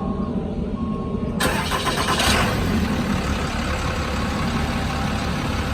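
Cummins 6.7 L turbo diesel in a 2010 Ram 5500 started from cold: it cranks and catches about a second and a half in, then settles into a steady idle.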